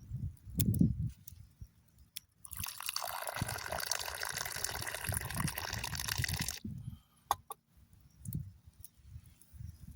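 Tea poured in a steady stream for about four seconds, starting and stopping sharply. Soft low thumps and clicks of handling come around it, the loudest about a second in.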